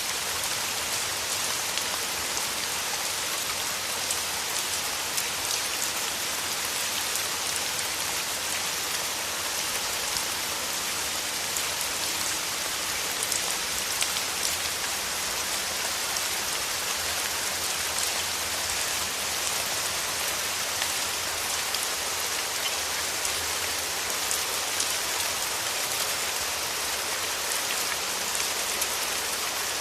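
Steady rain falling, an even hiss dotted with the small ticks of individual drops hitting a surface.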